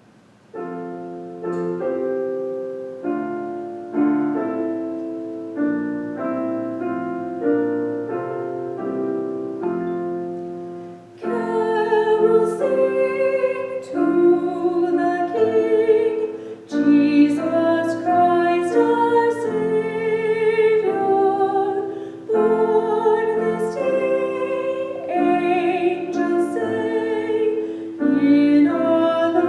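Piano playing a slow introduction of separate chords. About eleven seconds in, a female solo singer enters in a classical style with vibrato, accompanied by the piano.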